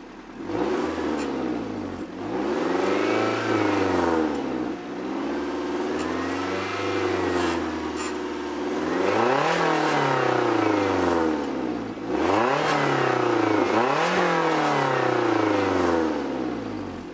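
Japanese sports car engine revving hard and dropping back, about five times in a row, with the pitch climbing steeply on each rev.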